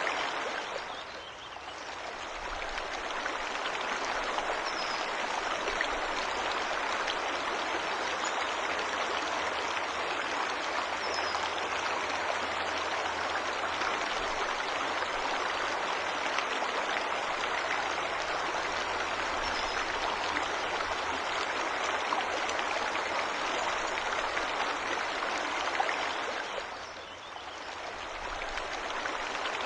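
Forest waterfall: a steady, even rush of falling water, with a few faint high bird chirps. The sound fades down and back up briefly about a second in and again near the end.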